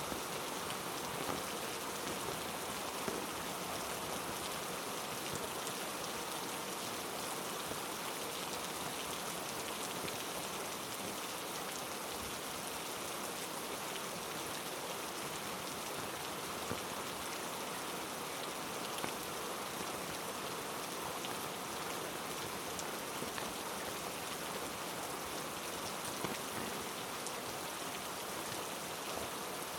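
Heavy rain falling steadily in rainforest, an even hiss of rain with a few sharper single drop hits scattered through it.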